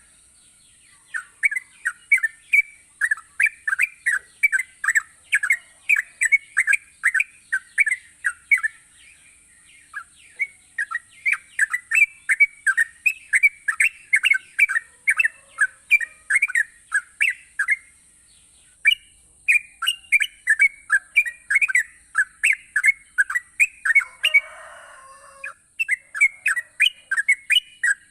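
Yellow-vented bulbul (trucukan) in full, persistent song: a rapid run of short warbled notes, about three a second, broken by a few brief pauses. A steady high hiss runs underneath.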